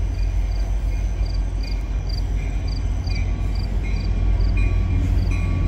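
Low, steady rumble of an approaching Union Pacific freight train's diesel locomotives, with crickets chirping in regular pulses, two or three a second, and a second insect adding longer chirps from about two seconds in.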